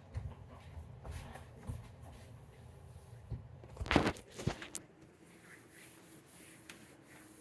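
Faint kitchen handling noises: light knocks and rustling, with a louder sharp knock about four seconds in and a second one half a second later. A low hum stops about five seconds in.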